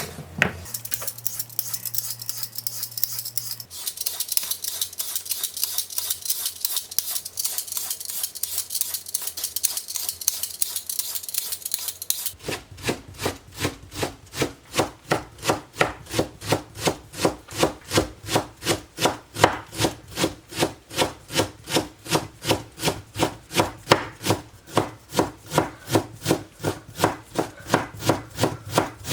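Knife chopping food on a hinoki wood cutting board: about twelve seconds of fast, light, scratchy strokes, then a steady chopping rhythm of about three to four strokes a second.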